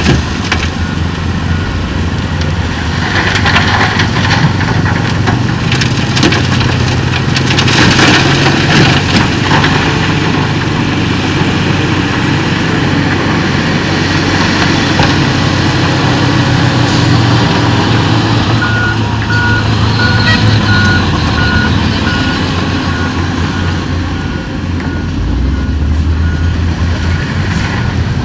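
Heavy diesel earthmoving machinery, a bulldozer and dump truck, running steadily under load, with scattered clatter and knocks in the first third. From about two-thirds of the way through, a reversing alarm beeps at a steady rhythm.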